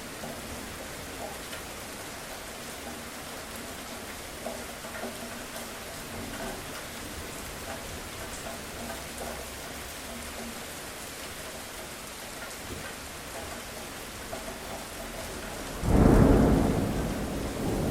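Steady rain falling, then near the end a sudden loud clap of thunder that rumbles on and slowly fades.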